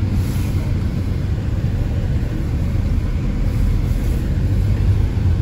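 Car running along a road, heard from inside the cabin: a steady low engine and road rumble.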